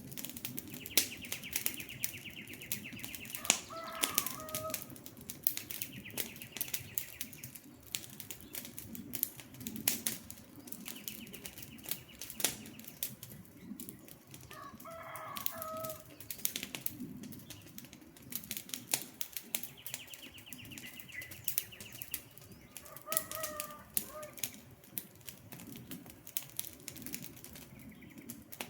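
Campfire crackling and popping with irregular sharp snaps. A bird gives a short call three times, and a high buzzing trill comes and goes four times.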